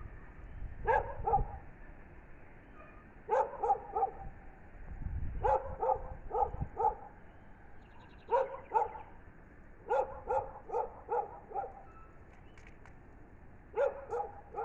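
A dog barking in six short runs of three to six quick barks each, with pauses of a second or more between runs.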